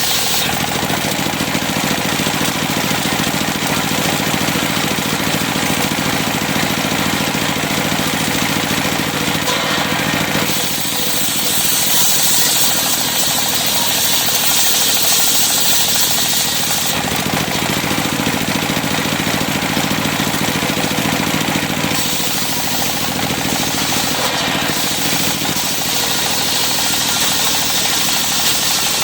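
Engine-driven circular sawmill running steadily while its blade saws cempaka timber. The high cutting hiss swells and eases several times as the wood goes through the blade.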